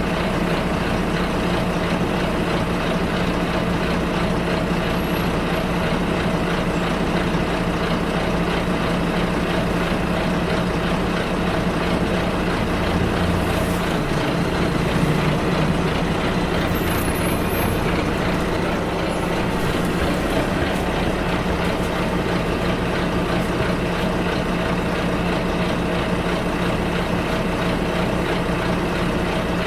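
Bus riding along, heard from inside the cabin: a steady engine drone over road noise, with the engine note shifting briefly about halfway through.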